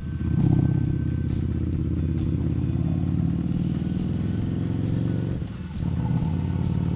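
Harley-Davidson Street Rod 750's V-twin engine running steadily while riding. Its sound drops briefly about five and a half seconds in, then picks up again.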